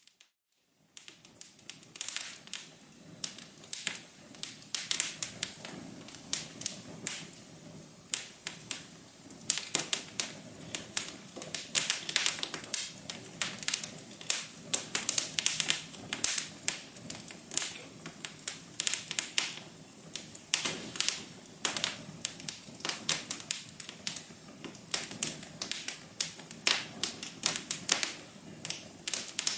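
Wood fire in a fireplace crackling: dense, irregular sharp pops of varying loudness over a soft steady hiss. The sound drops almost to silence for under a second at the very start, then comes back.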